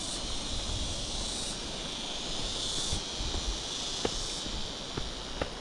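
Steady high-pitched insect chorus that swells and eases every second or so, with a few sharp clicks near the end.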